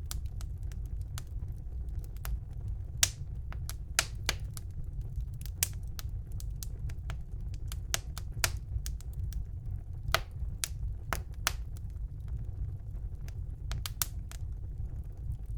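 Wood fire burning in a fireplace: a steady low rumble of the flames with sharp, irregular crackles and pops of burning logs.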